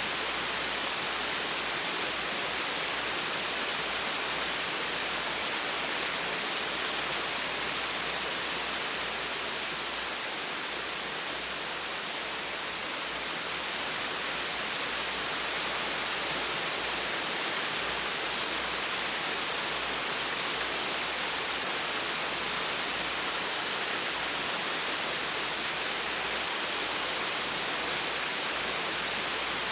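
Small waterfall splashing and rushing steadily, an even hiss of falling water with a slight dip in loudness about ten seconds in.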